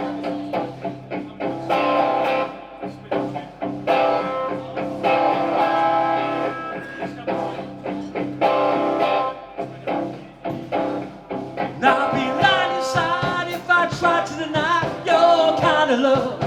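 Live rock band playing a song intro with guitar chords and a steady beat. About three-quarters of the way through, a wavering lead melody comes in over the chords.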